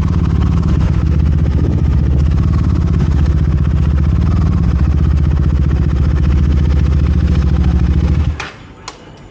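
Motorcycle engine running steadily at idle, then switched off about eight seconds in, the sound cutting off abruptly and followed by a couple of sharp clicks.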